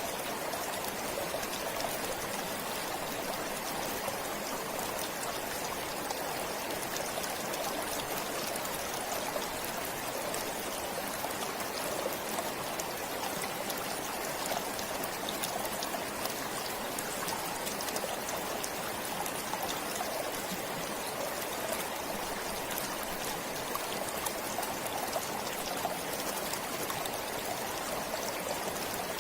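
A stream flowing steadily: a continuous rush of running water with fine trickling.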